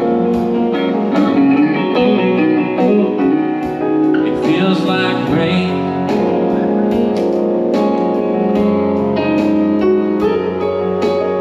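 Live music from a duo playing a slow song, an instrumental stretch between sung lines, with guitar.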